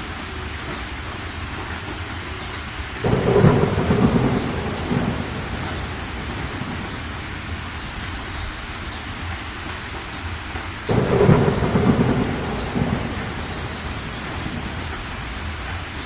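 Steady rain falling, with two sudden thunderclaps about three seconds in and again near eleven seconds, each rumbling off over a couple of seconds.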